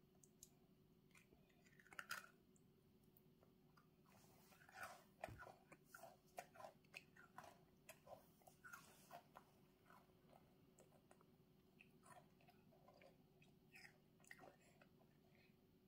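A toddler chewing a crunchy chocolate chip cookie: faint crunches and mouth clicks, busiest in the middle stretch, over a low steady hum.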